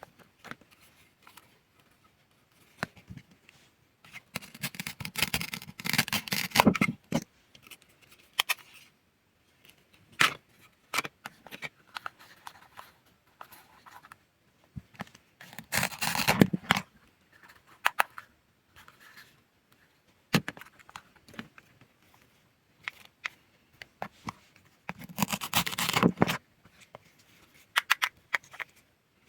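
Cutting sounds: crackly scraping and tearing as a blade goes through the item. There are three longer runs of close-packed crackles, with scattered single clicks between them.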